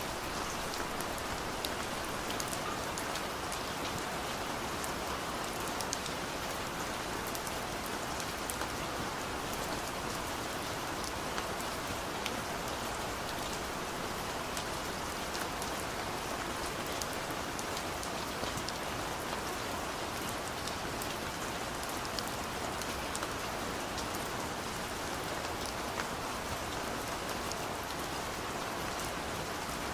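Steady rain falling on a car's roof and windows, heard from inside the car: an even patter with many individual drops ticking.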